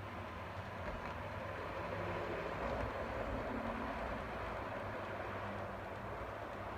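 Model train running along the layout's track: a steady rolling rumble with motor hum, swelling a little in the middle.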